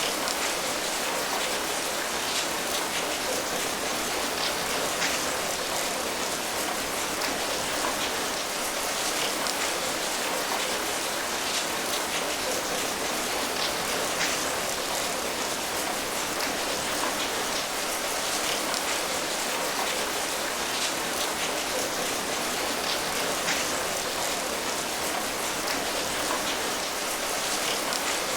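Steady rain falling, an even hiss of rain with many small drop patters on a surface, with no change in strength.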